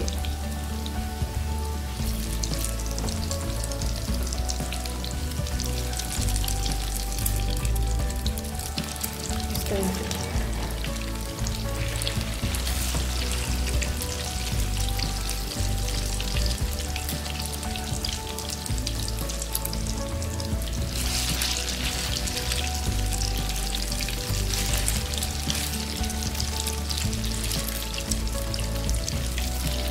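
Maggi noodle and chicken kababs shallow-frying in hot oil, sizzling steadily as they are turned. The sizzle gets louder about two-thirds of the way through.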